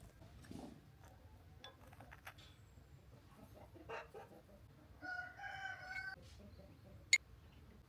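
A rooster crowing once, a call of about a second, partway through. It is framed by a few faint knocks and a sharp click near the end.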